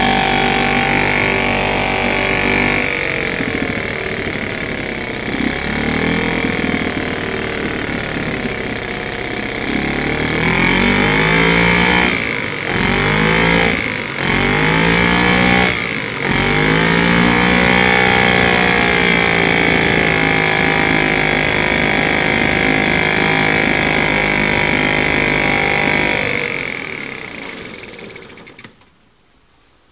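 British Seagull Forty Plus single-cylinder two-stroke outboard motor running. It is throttled up and down several times, then holds a steady speed before dying away and stopping near the end.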